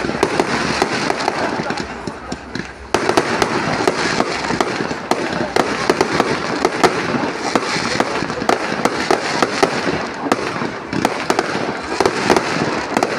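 Fireworks display going off: rapid sharp bangs over continuous crackling, suddenly louder about three seconds in.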